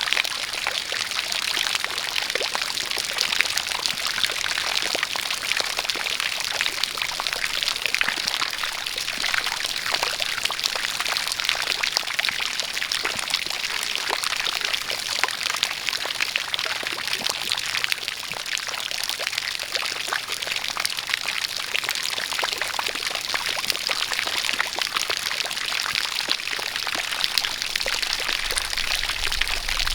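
A steady jet of water pouring and splashing, with rain falling; an even, dense hiss of drops that does not change.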